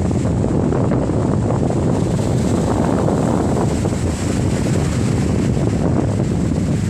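Loud, steady storm wind buffeting the microphone.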